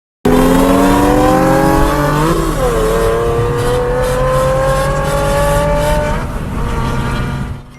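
Car engine at full throttle, its revs climbing, with a quick gear change about two seconds in, then climbing steadily again until the throttle lifts near the end.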